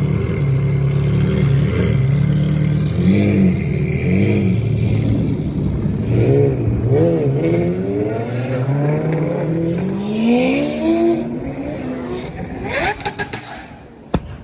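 Lamborghini with a loud aftermarket exhaust, revving in short blips and then rising in pitch in one long rev. It ends in a quick run of sharp exhaust crackles and pops.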